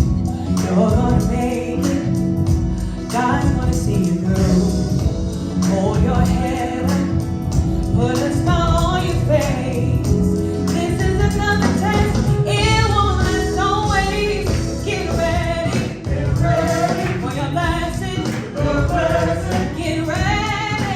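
Gospel praise music: a choir singing over band accompaniment with drums and tambourine.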